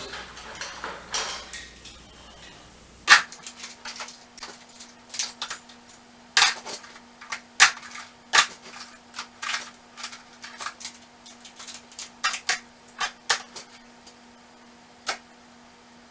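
Metal hand tools clinking and clattering as they are set one after another into a toolbox: a dozen or more irregular sharp clanks, starting about three seconds in. A faint steady hum runs underneath.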